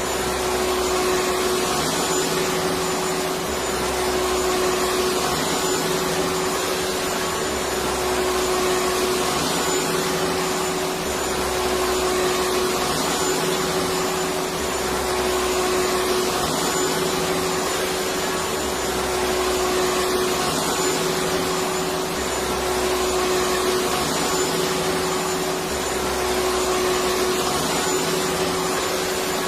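Electric vacuum cleaner running continuously: a steady motor whirr and rushing air with a constant mid-pitched whine. A low rumble underneath swells and drops about every three and a half seconds.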